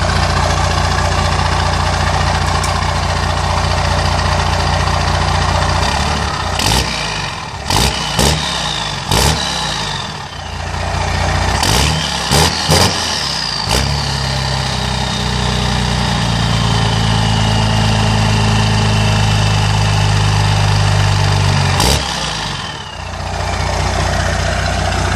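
12-valve Cummins 5.9 L inline-six turbo diesel running through a new exhaust: a steady idle, then a run of sharp knocks, then the engine runs louder and heavier for about eight seconds with a high whistle slowly falling in pitch, before settling back to idle after a final knock.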